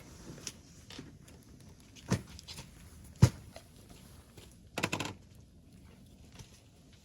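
A few scattered knocks and thuds, as of objects being set down or handled: a dull thud about two seconds in, a sharper, louder knock a second later, and a short rattling clatter around five seconds.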